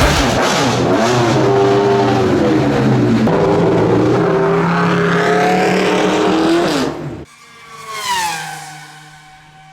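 Hillclimb race car engine at full throttle, its pitch rising and dropping with gear changes, cut off sharply about seven seconds in. A car then passes with a falling pitch, swelling and fading.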